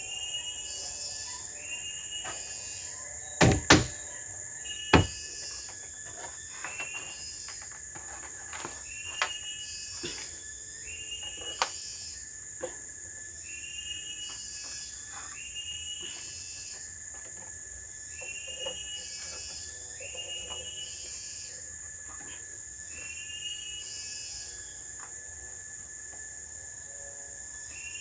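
Steady high drone of forest insects, with a short chirping call repeating about every one and a half seconds. A few sharp knocks of wood being worked stand out: two close together about three and a half seconds in, another a second later, then fainter taps.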